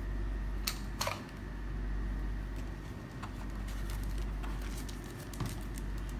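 Handling of a battery-powered surgical oscillating saw while its battery pack is taken out: two sharp plastic clicks about a second in, then faint taps and clicks over a steady low hum.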